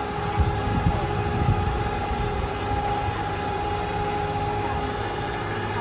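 Tour boat's engine running steadily, a low rumble with a steady higher hum over it.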